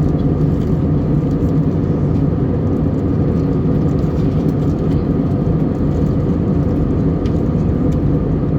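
Steady, loud cabin noise of an Airbus A321neo airliner: a continuous low rumble of the engines and airflow.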